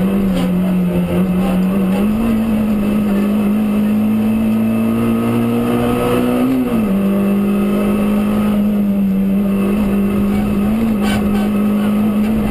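Rally car engine running hard on a special stage. Its note holds steady, climbs slowly for a few seconds, drops sharply about two-thirds of the way through, then holds steady again.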